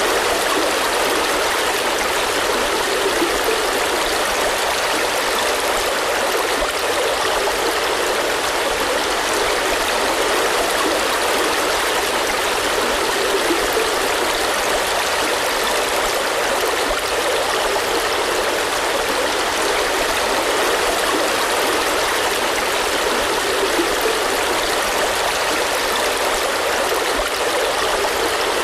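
Steady heavy rain: an even, unbroken rushing hiss with no single drops, thunder or other events standing out.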